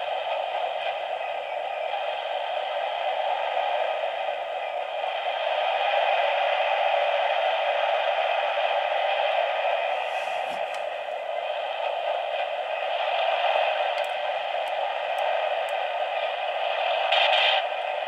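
Two-way radio static from a model locomotive's sound system, played as part of its freight yard sounds: a steady, narrow-band hiss like an open radio channel, with a few brief clicks and crackles about ten seconds in and near the end.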